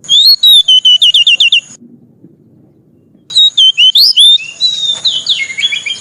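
A small bird singing: a quick run of repeated whistled notes, a pause of about a second and a half, then a second, more varied phrase of whistles and trills.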